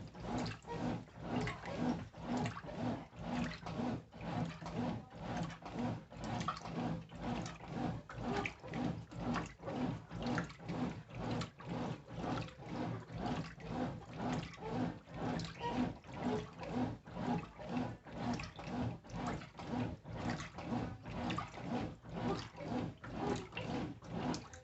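Brastemp Intelligent 7 kg top-loading washing machine agitating clothes in water: rhythmic swishing strokes, about two a second, over a steady low motor hum. It stops at the end as the machine moves into its soak stage.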